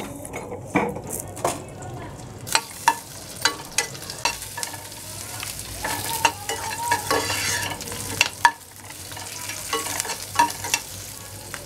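Onion pieces sizzling in hot oil in a non-stick frying pan over a high flame, stirred with a metal spoon that clicks and scrapes against the pan again and again. The sizzle grows fuller about two and a half seconds in.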